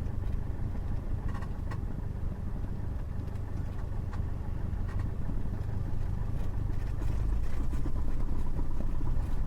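Cessna 172's piston engine running at low taxi power, a steady low drone heard inside the cabin, getting a little louder about seven seconds in.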